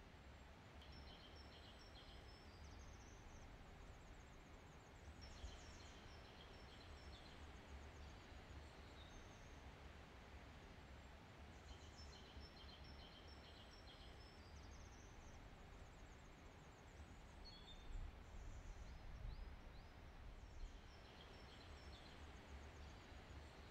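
Faint birdsong: short high chirping phrases that come back every few seconds, over a low, steady outdoor hiss and rumble.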